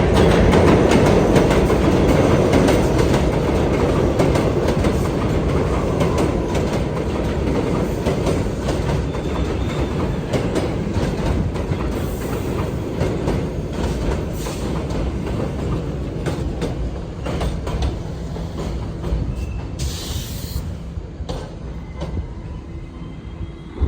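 New York City subway train running along the track, its wheels clacking over rail joints, loud at first and fading steadily as it moves away.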